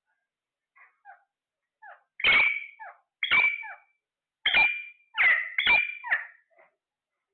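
A parrot calling: a few faint short notes, then five loud, harsh pitched calls in quick succession.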